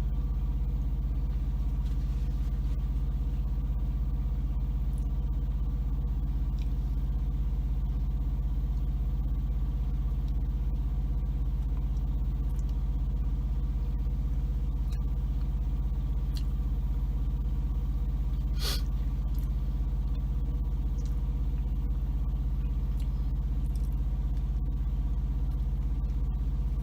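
Semi-truck diesel engine idling steadily, a low, even hum heard from inside the cab. One brief sharp click about two-thirds through.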